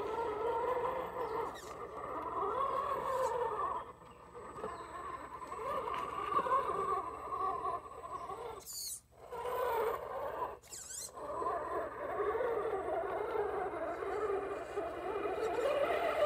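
RC crawler's Novak 55-turn brushed electric motor and gears whining under throttle, the pitch wavering up and down and dropping off briefly around four and nine seconds. Two short hissy scrapes about nine and eleven seconds in.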